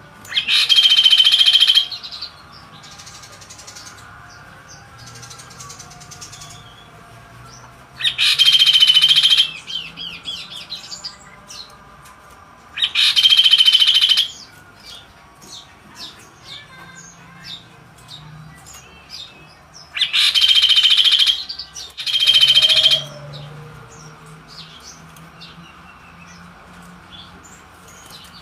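A kaso-kaso bird singing: five loud, harsh, buzzy phrases of about a second and a half each, with soft short chirps in between.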